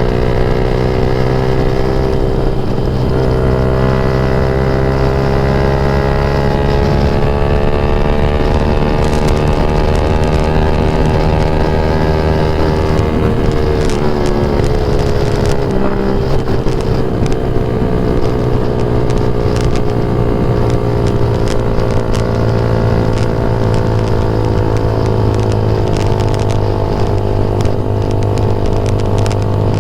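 Yamaha MX King 150's single-cylinder four-stroke engine running under way through a Rob1 TGA aftermarket exhaust, a steady bassy note. Its pitch drifts slowly, then dips and climbs again about halfway through.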